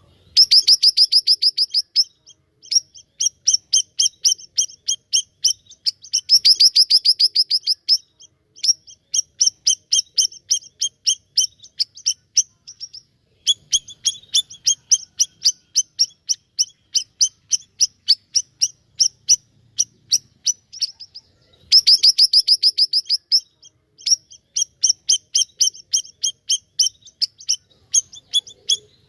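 A siri-siri bird singing hard: rapid strings of sharp, high chirping notes, several a second, in phrases a few seconds long broken by short pauses.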